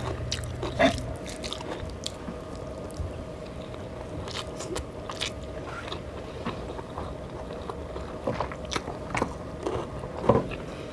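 A person chewing and biting food close to the microphone, with scattered short clicks and light scrapes, over a faint steady hum.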